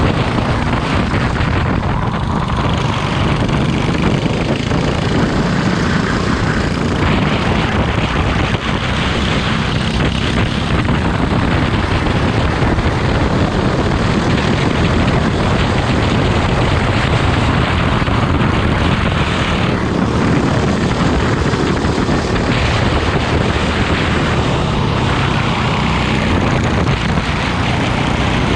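Racing kart engine running hard, a steady loud drone that goes on without a break.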